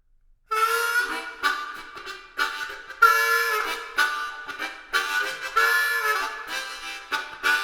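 Harmonica music in short, repeated chordal phrases, starting about half a second in.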